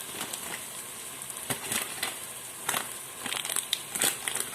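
A spoon or spatula scraping and knocking against a cooking pot while spice powders and paste are stirred in, about half a dozen irregular scrapes and clicks over a faint hiss.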